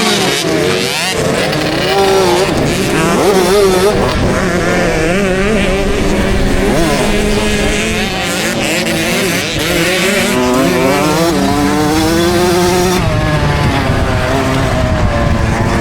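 KTM 65 SX two-stroke motocross engine, ridden hard, its pitch rising and falling with throttle and gear changes, heard from the rider's helmet camera.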